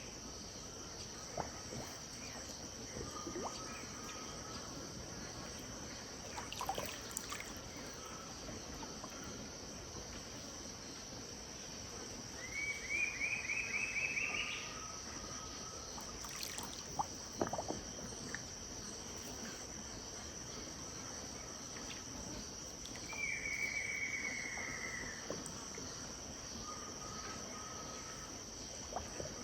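Riverside evening ambience: a steady high insect drone, with a bird singing a run of rising notes twice and a falling run once, each followed by a softer lower call. A few sharp clicks come in the middle.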